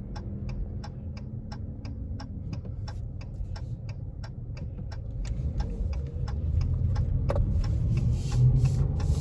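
A car's turn-signal indicator ticking steadily, about twice a second, over the engine's low hum. The engine grows louder in the last few seconds as the car accelerates.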